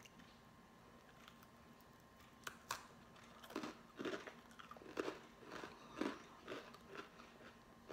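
Crunching and chewing of a puffy rosemary cracker, close to the mouth. The first couple of seconds are quiet, then the crunches start about two and a half seconds in and come roughly every half second.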